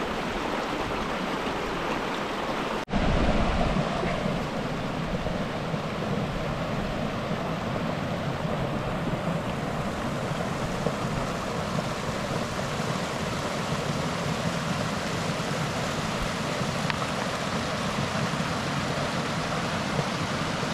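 Mountain creek water rushing steadily over rocks. About three seconds in, the sound breaks off for an instant and comes back slightly louder and fuller.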